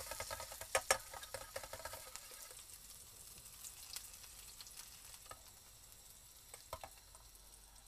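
Chopped garlic and shallots sizzling in hot oil in a camping cook pot while being stirred with a spatula, with a few clicks of the spatula against the pot about a second in and again near the end. The sizzle is strongest at first and dies down over the next few seconds.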